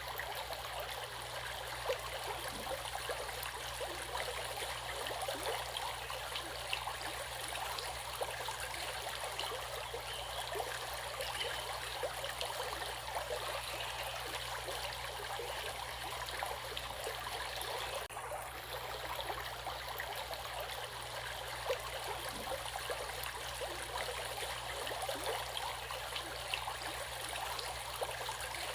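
Flowing stream water: a steady rush with fine, continuous splashing and trickling. The sound dips briefly once, about two-thirds of the way through.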